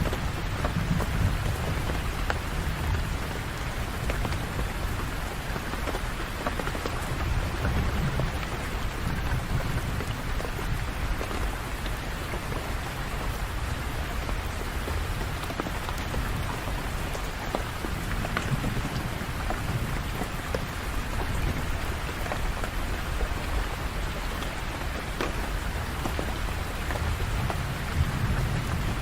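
Steady rain falling on surfaces, with a low rumble underneath that swells and fades every several seconds.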